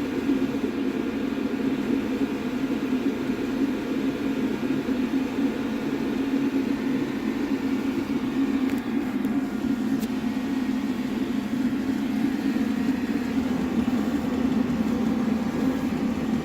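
Chinese diesel air heater running steadily at full heat: its burner and blower make an even, unbroken rushing hum.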